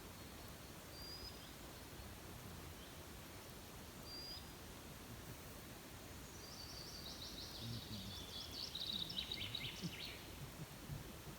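A songbird singing: two short, high, thin notes early on, then from about six seconds in a rapid trill of notes lasting about three and a half seconds that steps down in pitch toward its end, over a steady faint background hiss.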